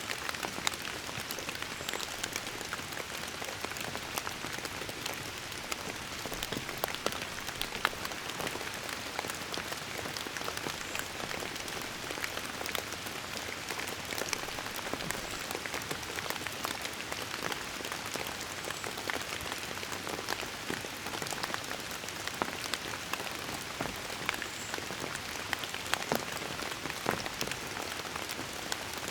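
Steady rain: an even hiss with many separate drops ticking sharply within it.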